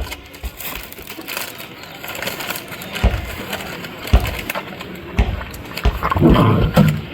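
Puppies scuffling and eating over food: irregular crunching and knocking throughout, with a louder, busier stretch about six seconds in.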